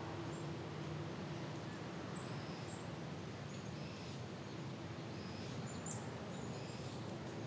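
Faint short bird chirps, scattered irregularly, over a steady background hiss.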